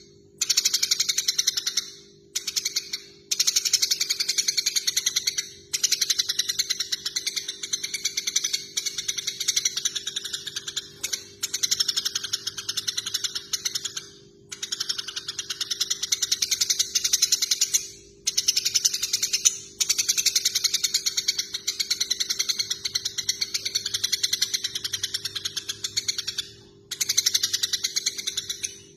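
Eurasian tree sparrows chattering in fast runs of sharp, rapid chirps. Each run lasts a few seconds, with brief pauses between them. This is the excited chatter of sparrows fighting.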